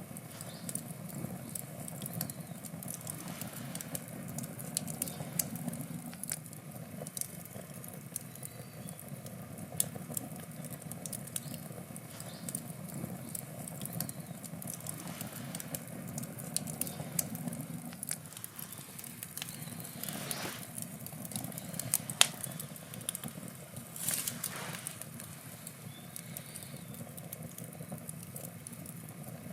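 Wood campfire burning: a low rumble of flame under a steady run of sharp crackles and pops, with one louder pop about two-thirds of the way through and a couple of short hisses.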